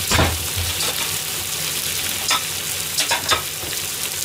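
Bok choy and pork stir-fry sizzling steadily in a wok, with a few sharp clicks over it, the strongest right at the start.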